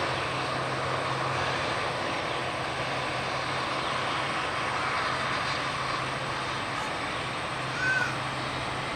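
Boeing 787 Dreamliner's jet engines and airflow during landing, a steady rushing noise with a low hum. A brief high chirp sounds about eight seconds in.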